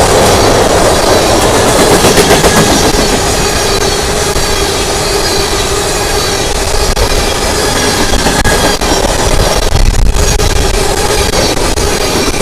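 Empty oil tank cars of a freight train rolling past, the steel wheels clattering steadily over the rail joints.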